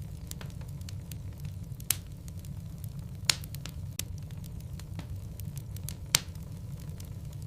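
Wood logs burning in a fireplace: a steady low rumble of the fire with scattered crackles and three sharp, loud pops about two, three and six seconds in.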